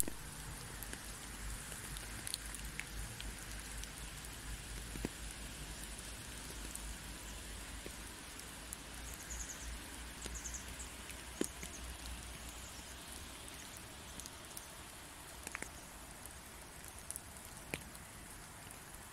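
Light rain falling steadily in woodland, a soft hiss with scattered single drops ticking on wet leaves.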